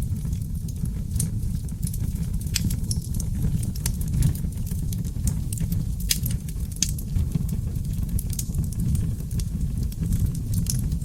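Wood fire of seasoned oak logs burning in a fireplace: a steady low roar of flames with frequent, irregular crackles and sharp pops, the loudest pops about six and seven seconds in.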